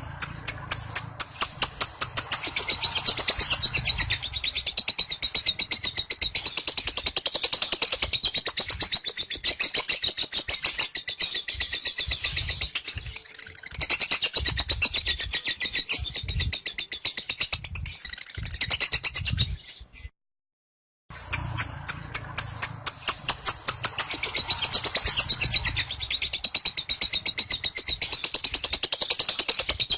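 Lovebird singing ngekek: a long, unbroken, very fast chattering trill of rapid high notes. It breaks off abruptly for about a second two-thirds of the way through, then carries on.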